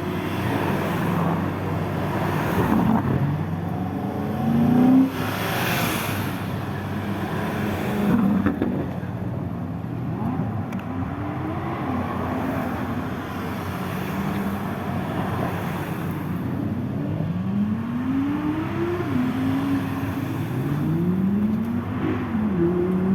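Lamborghini supercar engines revving and accelerating, with engine notes rising and falling again and again over a steady idle. There is a loud peak about five seconds in and another near eight seconds.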